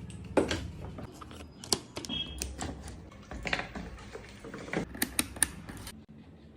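Irregular clicks and knocks of small plastic parts being handled, with a few sharper knocks about half a second in, near the middle and three in quick succession near the end.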